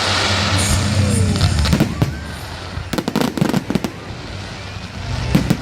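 Fireworks going off: a loud rushing hiss over the first two seconds, then a volley of rapid crackling bangs from about three seconds in, with a few more cracks near the end.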